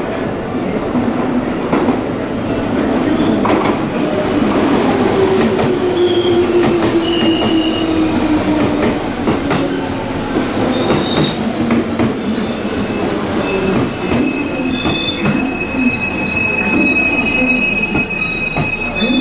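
Electric commuter train moving along the platform track with its wheels squealing: short high squeaks, then a long steady squeal from about two-thirds of the way in. Under it are the rumble of the cars and clicks of wheels over rail joints, and a motor whine that falls in pitch in the middle.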